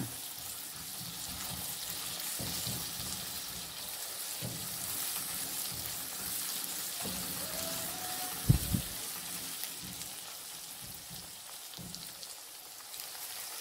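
Onions and tomatoes sizzling as they fry in a little hot oil in a non-stick karahi, with the soft scrape and knock of a plastic spatula stirring them. A single louder clunk comes about eight and a half seconds in.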